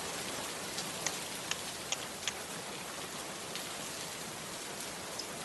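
Rain falling steadily, an even hiss with a few sharp drop ticks in the first half.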